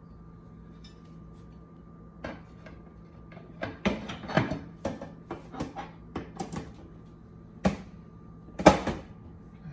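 Irregular clicks and knocks as fittings are put on a new refrigerator, likely its door handles being attached, with a few louder knocks near the middle and near the end. A faint steady hum runs underneath.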